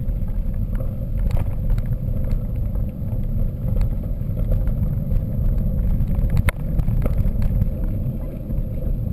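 Mountain bike being ridden, heard through an action camera: a steady low rumble of wind and rolling, with scattered clicks and rattles from the bike over rough ground.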